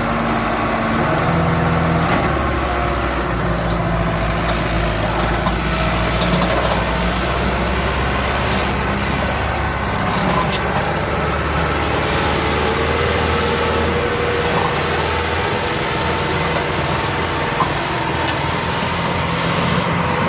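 Sonalika DI 750 III tractor's diesel engine running steadily while it pulls a loaded trolley. Its engine note shifts about two seconds in and again around fifteen seconds.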